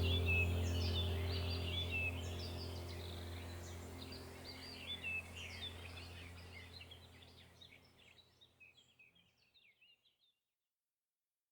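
Songbirds chirping and trilling over a low, steady droning hum. Both fade out gradually and are gone about eight seconds in, leaving silence.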